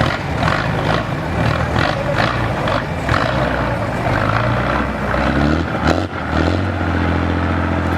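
Off-road competition truck's engine running hard under load, with a rhythmic pulsing early on; about six seconds in it briefly drops, then revs up and holds at a higher pitch.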